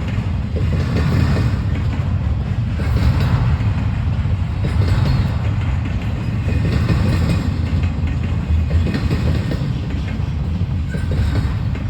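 Freight train rolling past: a steady low rumble of cars and wheels, with a clatter of wheels on the rail joints about every two seconds.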